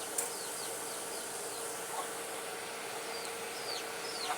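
A small bird chirping over and over: short, high notes that fall in pitch, about two a second, over a steady hiss.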